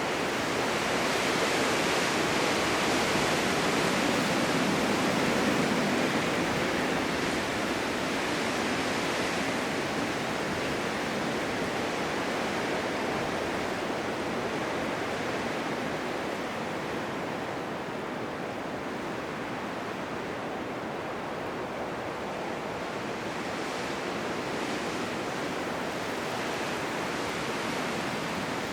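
Blizzard wind blowing steadily as an even rushing noise, swelling in the first few seconds, easing off, and gusting up again briefly near the end.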